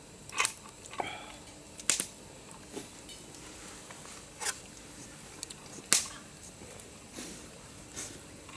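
Scattered sharp clicks and pops, about one every second or two, one of them briefly ringing, over a low steady background.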